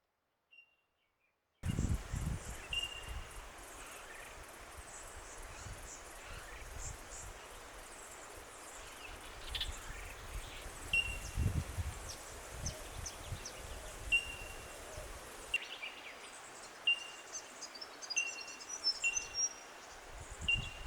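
Wetland bird sounds after about a second and a half of silence: a bird repeating a short, high call with a falling tail, about once a second from about eleven seconds in, with higher twittering near the end, over wind rumbling on the microphone.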